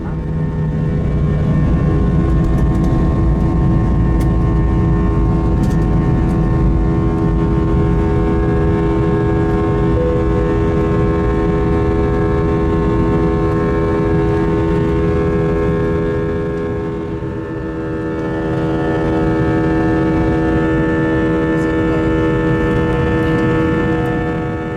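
Airbus A321 jet engines heard inside the cabin: a steady rumble under a drone of several held tones. About 17 seconds in it dips briefly, then comes back with its tones slightly changed.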